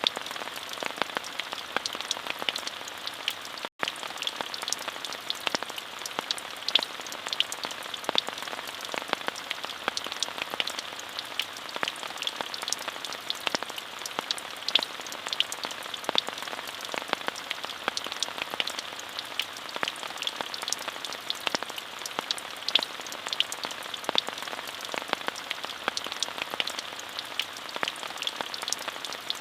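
Steady rain falling, an even hiss dotted with many sharp ticks of individual drops, with a split-second dropout about four seconds in.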